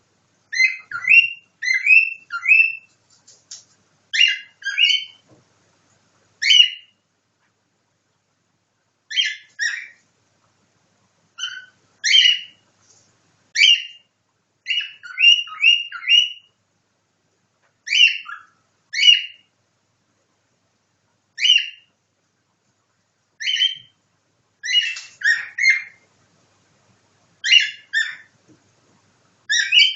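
Cockatiel whistling and chirping a nightingale-like song in its mimicry: short, sharp whistled notes in clusters of one to four, broken by pauses of a second or two.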